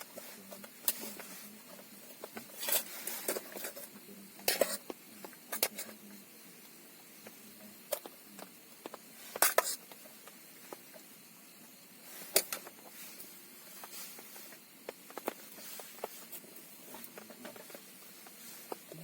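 Scattered light taps and clicks at irregular intervals, a few sharper ones standing out, over a faint steady hiss.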